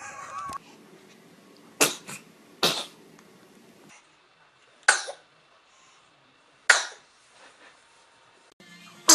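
Babies sneezing: about five short, sharp little sneezes, a second or two apart.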